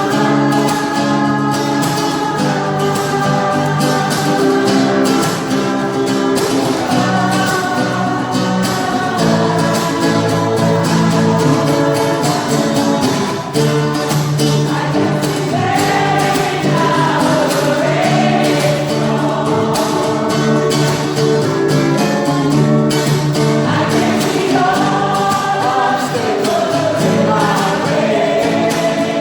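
Church choir singing with instrumental accompaniment, steady held chords under the voices.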